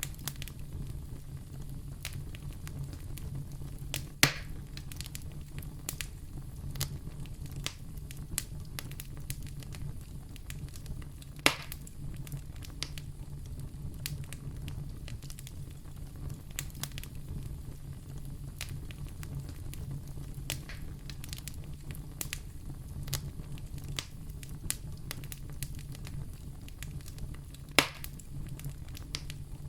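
Fire in a fireplace crackling steadily over a low rumble of flames, with frequent small snaps and three louder pops spread through.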